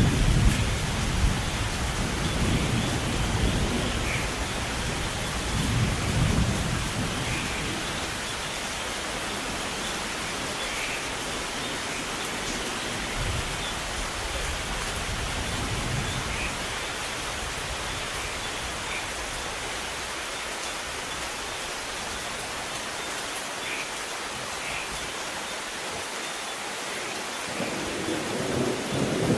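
Steady rain falling in a thunderstorm, with a roll of thunder rumbling at first and dying away over the first several seconds. Another rumble of thunder builds near the end.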